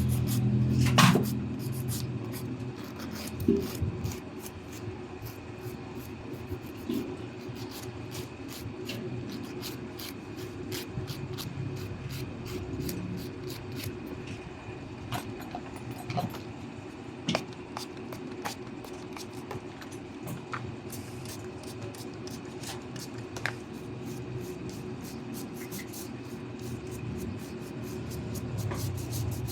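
Pedicure tools scraping and clipping thick toenails: a run of small, irregular clicks and light rasping over a steady low hum.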